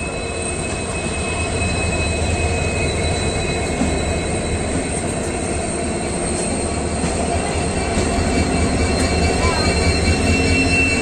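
Passenger train running at speed through curves: a steady rumble of wheels on rail, with a high steady squeal of wheel flanges against the curved rail over it, growing slightly louder near the end.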